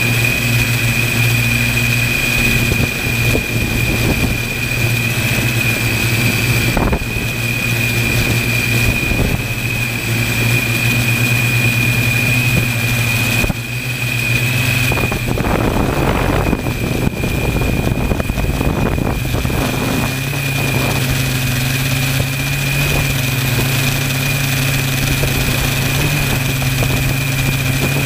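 Align T-Rex electric RC helicopter in flight: a steady low rotor hum with a steady high whine over it. The hum rises slightly in pitch about two-thirds of the way through.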